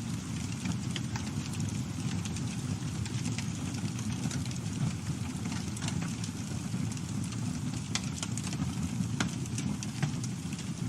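Campfire burning: irregular sharp crackles and pops from the burning wood over a steady low rumble, with a few louder pops in the second half.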